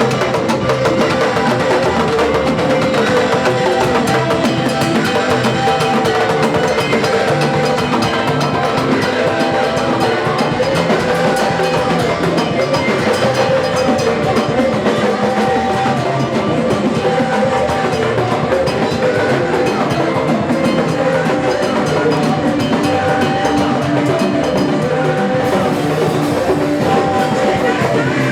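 Worship band music: a drum kit keeping a steady beat under held melodic tones.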